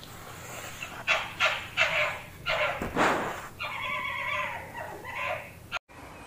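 Fox calling: a run of short, sharp barks, then a longer drawn-out call near the end.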